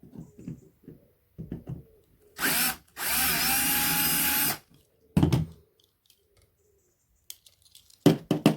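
Small electric drill spinning up briefly, then running steadily for about a second and a half as it drills into a diecast model car to open it. Handling knocks and clicks around it.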